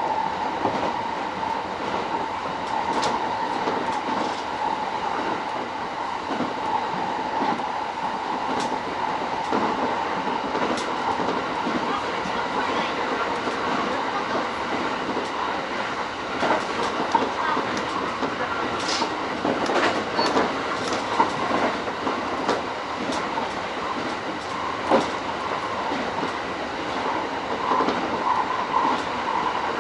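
E231-series electric commuter train running along the line, heard from inside the leading car: a steady running noise of wheels on rail with a constant hum, broken by scattered sharp clicks from the track that come more often in the second half.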